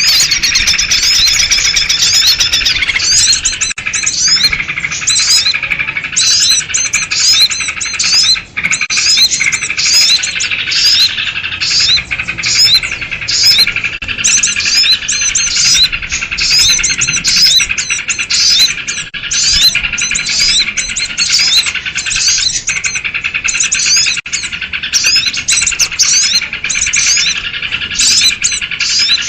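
A dense, agitated chorus of small birds, sooty-headed bulbuls (kutilang) among them, keeping up a continuous chatter of rapid overlapping chirps. It is a 'ribut' (commotion) call recording played as a lure to draw small wild birds.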